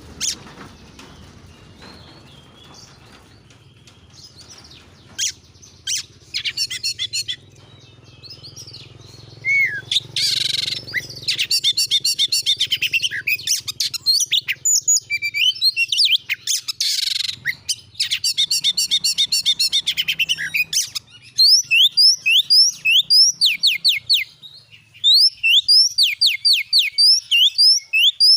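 Oriental magpie-robin (kacer) singing loudly in varied phrases with dense rapid trills. From about two-thirds of the way in, it breaks into a fast run of sharp rising whistles, about three a second.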